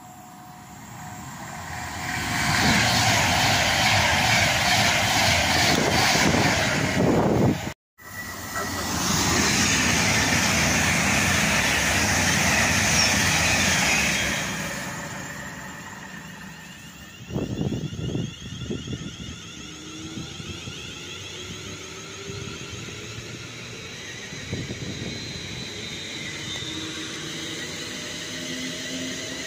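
An Avanti West Coast Class 390 Pendolino electric train passing through at speed: a loud rushing noise of wheels and air that builds, breaks off for a moment about eight seconds in, and dies away by about sixteen seconds. After a few knocks, a London Northwestern Railway Class 350 electric multiple unit is heard at the platform, with a faint rising motor whine.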